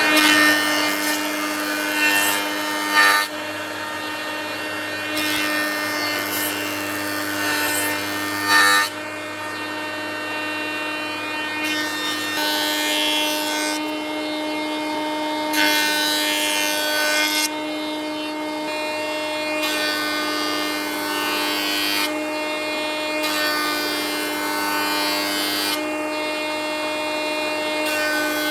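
Electric power tool working wood: a steady motor whine, with stretches of cutting or sanding noise that start and stop abruptly every few seconds.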